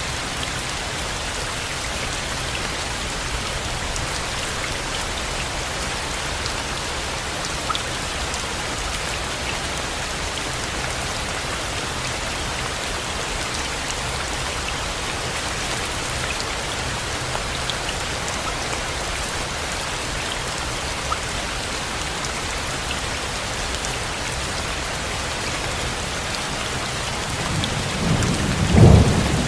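Steady rain falling, with scattered drops ticking. Near the end a low rumble of thunder builds.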